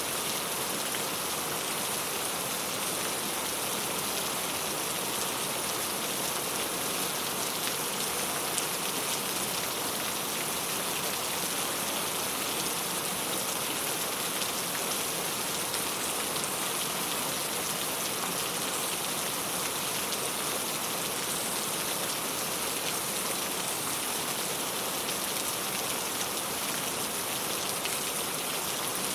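Steady rain falling on a clay-tile roof, a dense, even patter of drops.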